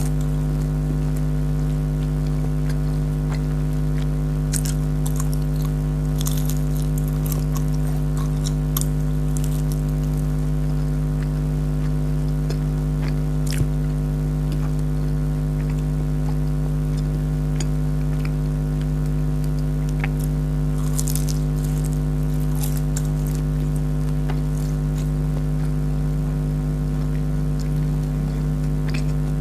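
Jalebi being chewed close to the microphone: scattered sticky clicks and small crunches, bunched in a few spells. They sit over a loud, steady, even-pitched hum that is the loudest thing throughout.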